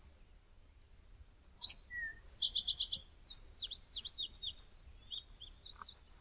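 A songbird singing one long, varied song that starts about one and a half seconds in: a quick run of repeated notes, then a string of high, downslurred whistles.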